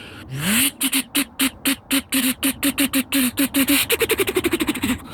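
A person's voice imitating a turbocharged car: a short rising note, then a rapid stuttering flutter of pitched pulses that quickens and goes higher near the end.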